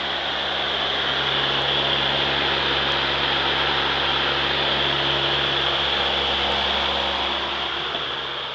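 Opel Vectra with its engine running: a low steady hum under an even, fan-like whoosh, swelling slightly after the first second and easing off near the end.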